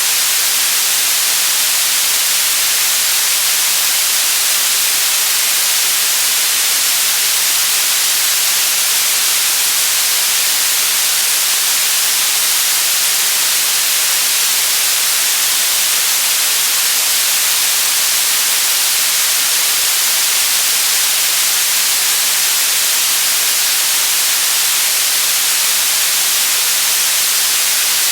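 Generated white noise: a steady, unchanging loud hiss, strongest in the high end.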